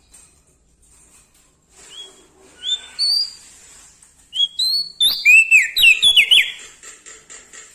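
Small songbird singing: after a quiet start, a few short rising whistled notes, then a loud, rapid run of sweeping whistles about five seconds in that fades away before the end.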